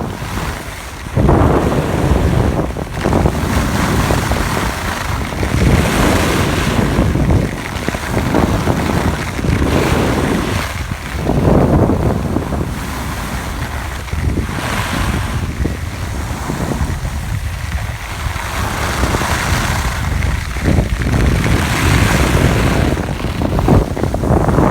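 Wind rushing over the microphone during a downhill ski run, swelling and fading every second or two, mixed with skis scraping on skied-out, hard-packed snow.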